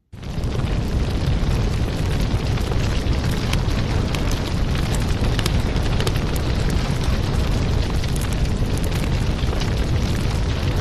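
Fireplace crackling: a steady, loud rush of fire with a heavy low rumble and many sharp pops and snaps, resuming after a momentary break at the very start.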